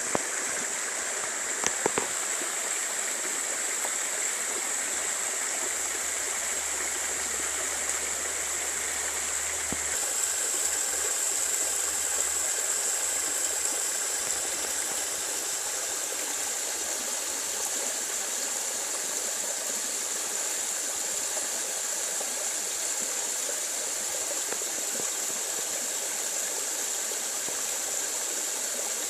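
Mountain valley stream rushing steadily over rocks, a continuous hiss of flowing water that shifts in tone about ten seconds in. A few sharp clicks sound about two seconds in.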